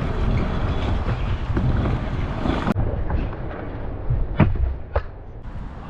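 Scooter wheels rolling on skatepark concrete with wind rushing on the helmet microphone. A sharp click comes near the middle, then a hard thud about four and a half seconds in and a smaller one just after, as the rider slips off the scooter on a flip attempt.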